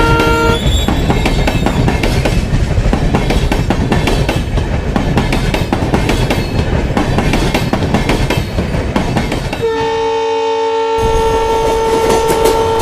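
Train running with the rhythmic clickety-clack of wheels over rail joints. A locomotive horn cuts off about half a second in, and another long horn blast starts about ten seconds in and holds to the end.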